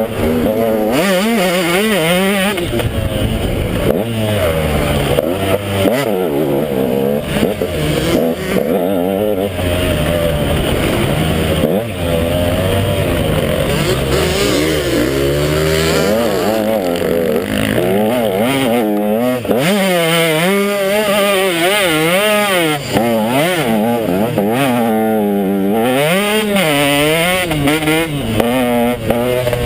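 KTM 150 XC two-stroke dirt bike engine revving hard, its pitch repeatedly climbing and dropping every second or two as the throttle is worked through the gears.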